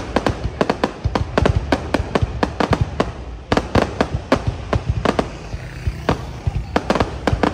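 Aerial fireworks display: a dense, irregular series of sharp bangs and cracks from bursting shells, over a continuous low rumble, with brief lulls between volleys.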